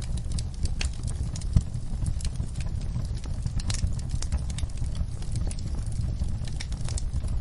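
Wood fire crackling in a fireplace: scattered sharp pops and snaps over a steady low rumble of flames, with one louder pop about a second and a half in.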